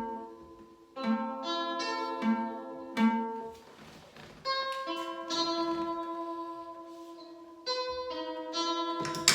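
Slow guitar chords, each plucked or strummed and left to ring for a second or more before the next. A sharp click comes right at the end.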